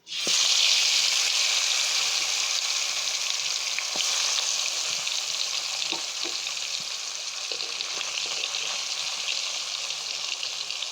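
Turmeric-, chilli- and salt-coated mirka fish going into hot soybean oil in a frying pan: the sizzling starts suddenly as the fish hits the oil, then carries on steadily with scattered pops.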